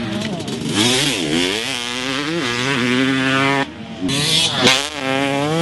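Yamaha YZ250 two-stroke dirt bike engine, with a Pro Circuit pipe and silencer, revving hard up and down as the bike is ridden. The pitch climbs and falls several times, and the sound drops off briefly a little over halfway, as if the throttle is chopped, before it pulls again.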